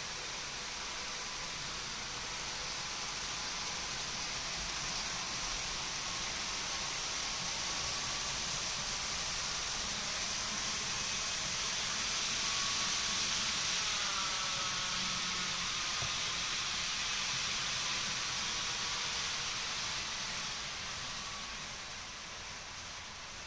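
N-gauge model Shinkansen train running on the layout: a steady hissing run with a faint wavering motor whine, growing louder toward the middle and fading near the end as it passes.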